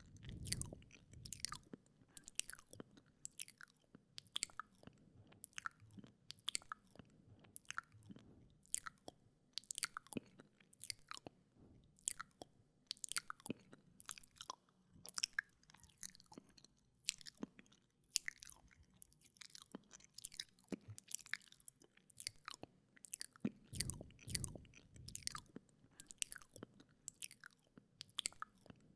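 Wet mouth sounds very close to a microphone: tongue and lip clicks, smacks and licking, several a second in an uneven rhythm, with a low muffled thump near the start and another about three quarters of the way through.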